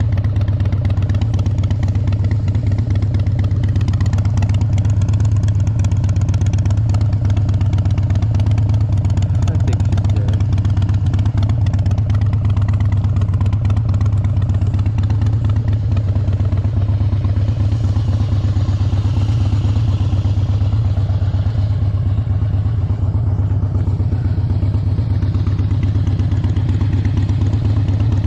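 Harley-Davidson Dyna's V-twin engine running steadily, with a strong low hum and no clear revving.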